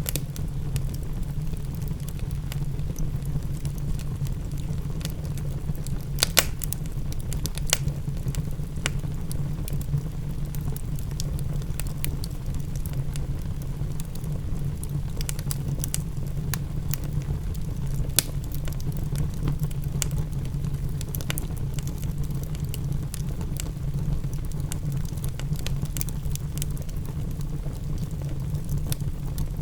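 Wood fire in a fireplace crackling, with scattered sharp pops, a few louder ones about 6 and 18 seconds in, over a steady low rumble, mixed with rain patter.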